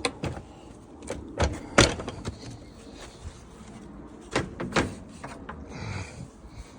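A few sharp knocks and clicks, the loudest about two seconds in, with a short rustle near the end.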